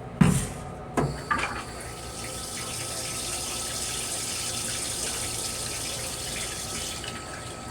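Two sharp clicks, then the restroom sink faucet in a Metro-North M3 railcar running steadily for about six seconds before shutting off near the end.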